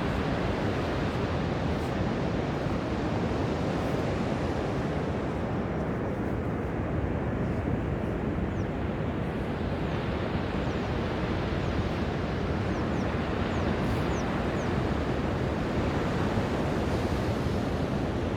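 Ocean surf breaking and washing on a beach, a steady rush that swells and eases slowly.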